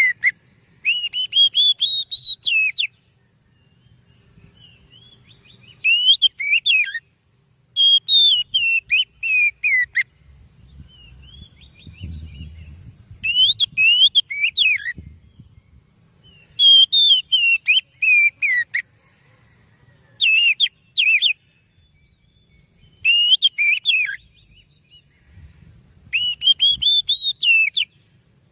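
Oriental magpie-robin singing: eight loud phrases of clear, sweeping whistled notes, each one to two seconds long, separated by short pauses.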